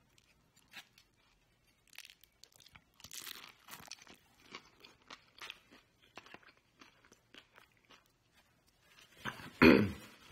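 Close-up chewing of food, with many short crisp crunches, and one much louder brief sound near the end.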